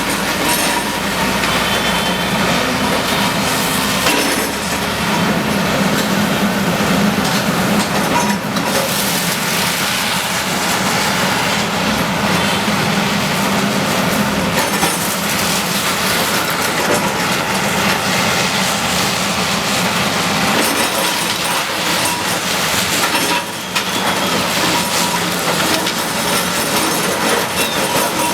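Bulldozer working: its diesel engine runs steadily under a constant clatter and clanking of metal.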